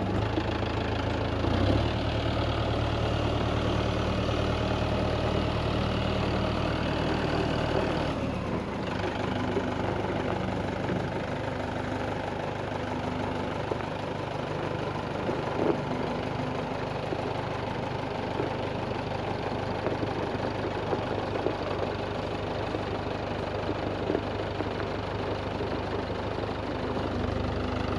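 Tractor engine running steadily, with a low droning note that changes about eight seconds in and again near the end.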